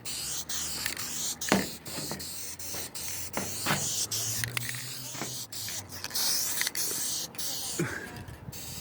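Aerosol clear coat spray can spraying, a loud hiss that stops and starts several times as the nozzle is pressed and released between passes.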